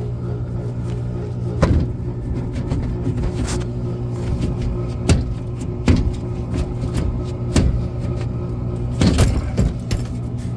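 Furnace blower motor humming steadily but not getting up to speed, with several sharp knocks along the way: the motor is trying to run and can't start, most likely because its run capacitor has failed.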